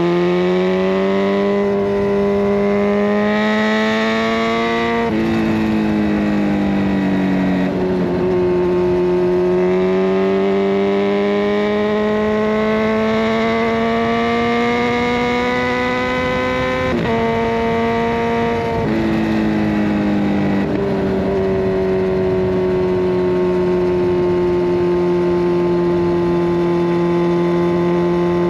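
Kawasaki Ninja 1000SX inline-four running through a decatted Scorpion Red Power exhaust while riding. The engine note climbs under throttle and drops sharply at gear changes several times, then holds a steady pitch for the last several seconds.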